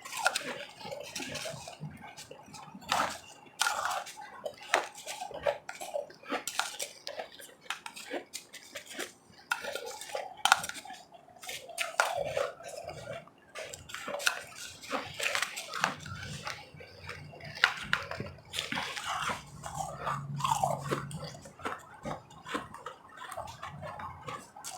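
A spoon scraping and clinking against a cup of ice, with ice crunching, in a dense run of irregular clicks and scrapes.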